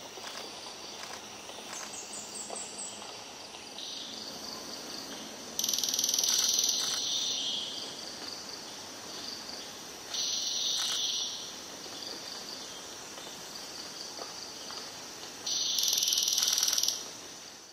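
Crested shrikejay giving loud, buzzy rattling calls: three bursts of about a second to a second and a half each, about five and a half, ten and fifteen and a half seconds in. A steady forest hiss runs between them.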